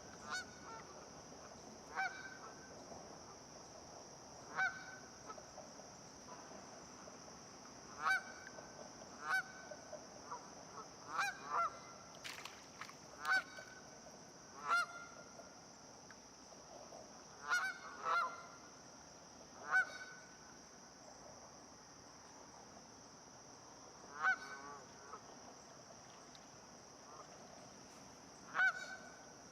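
Goose honking: about fourteen short, single honks at irregular intervals of one to four seconds, sometimes two in quick succession.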